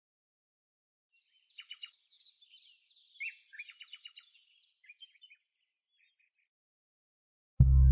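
Small birds chirping: a quick run of short, high, falling chirps lasting about four seconds. Just before the end a music cue comes in with a loud low note.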